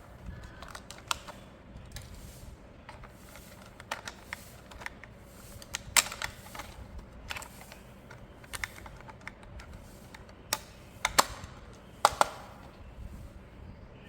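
Irregular light clicks and taps of hard plastic being handled, as a toy and its parts are unpacked, with a few sharper clicks about six seconds in and again around eleven to twelve seconds.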